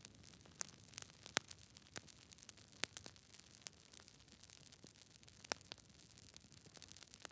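Wood fire crackling: irregular sharp pops and snaps over a faint steady hiss, a few louder pops among them.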